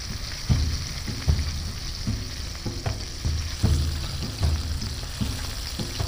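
Flour-coated pieces of wild pigeon meat deep-frying in hot cooking oil, a steady sizzle while the meat cooks through, with irregular low thumps and knocks about twice a second.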